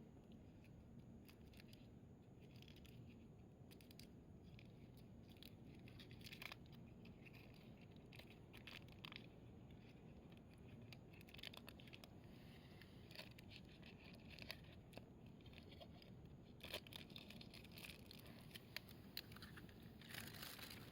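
Firewood burning in a camp fire stand, crackling faintly: scattered small pops and snaps, more frequent in the second half.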